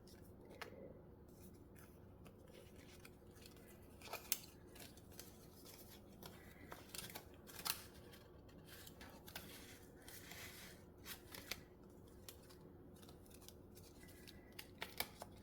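Faint handling of small crafting supplies: scattered light clicks and a brief soft rustle of sheets and packets of adhesive embellishments being picked up and set down, over a low room hum.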